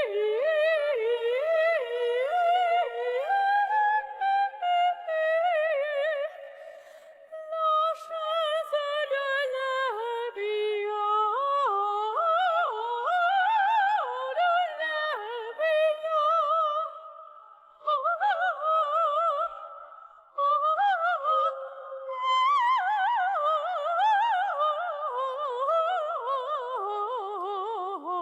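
A coloratura soprano sings an opera aria: fast runs and trills high in the voice, with a wide vibrato and a few short breaths between phrases.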